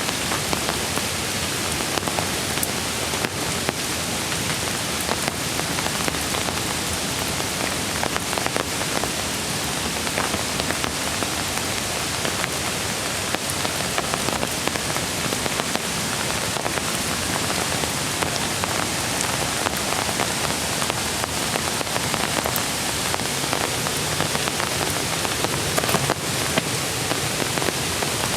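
Steady rain falling, with many scattered sharp drop hits over an even hiss.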